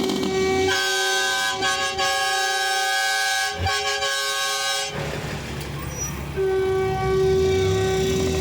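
Long, steady blasts of a multi-note horn sounding a chord: one held blast for about four seconds, a short break, then another starting near the end.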